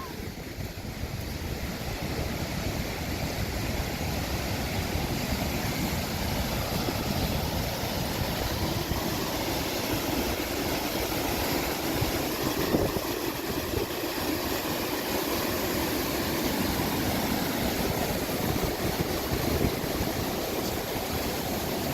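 Wisconsin River floodwater rushing and churning through a whitewater kayak course at very high flow, a steady rush of water that grows a little louder over the first few seconds.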